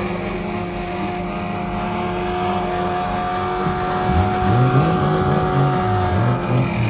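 Car engine running, its low pitch moving up and down with revs from about four seconds in.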